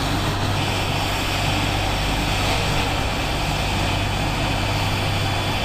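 Steady helicopter engine and rotor noise, an even rushing sound over a low hum that does not change.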